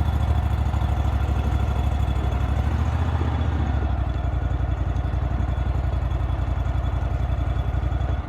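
Vehicle engine running steadily, with a fast, even low pulse.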